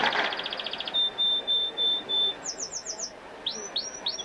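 A songbird singing close by in varied phrases: a fast high trill, then five short even whistles, a quick run of four high down-slurred notes, and five more down-slurred whistles near the end.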